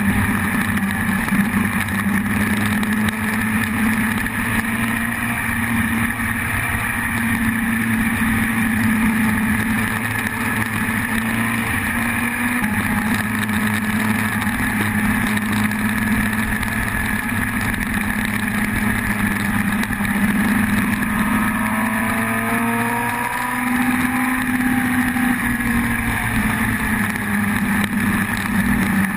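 Yamaha YZF-R1 sportbike's inline-four engine running steadily under way, its pitch gliding up and down about two-thirds of the way through.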